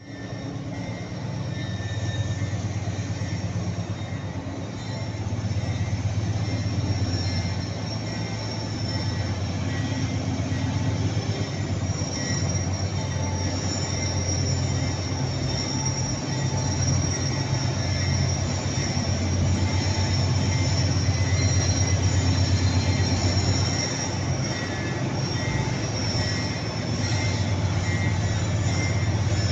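Loaded freight train on an upgrade: the locomotive engine drones steadily under heavy load while the wheels give off a thin, high, continuous squeal.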